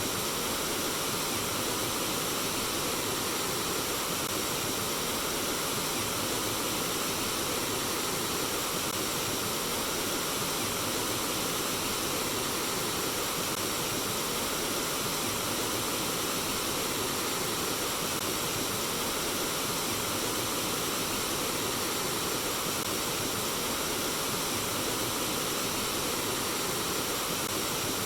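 Flowing water babbling steadily, a constant even rush with no breaks or changes.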